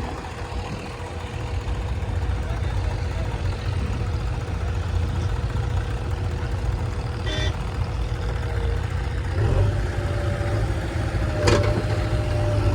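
Swaraj 855 tractor's three-cylinder diesel engine running steadily. A short high squeak comes just past halfway. About three-quarters of the way through the engine note changes and grows louder, and a sharp click follows soon after.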